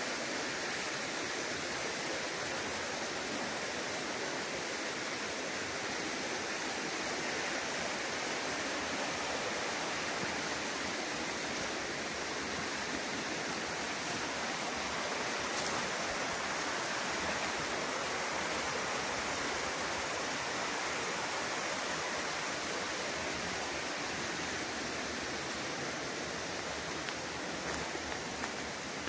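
Rushing water of a waterfall, a steady even wash of noise.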